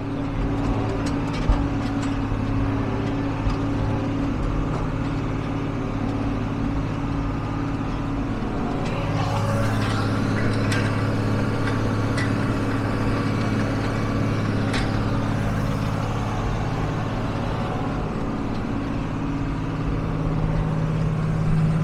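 John Deere 4440 tractor's six-cylinder diesel engine running steadily, with a slight shift in its note about nine seconds in.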